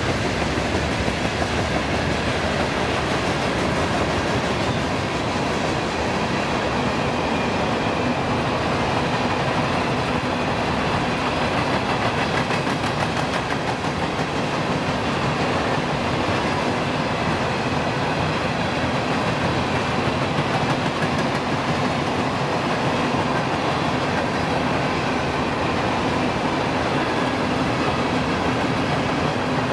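A train rolling past on the main line, its cars making a steady rumble and clatter of wheels on the rails.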